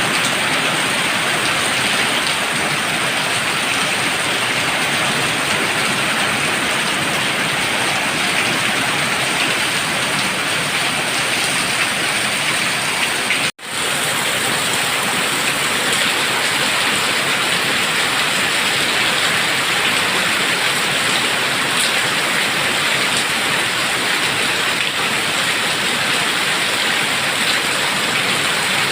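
Heavy rain pouring steadily, with a brief dropout about halfway through.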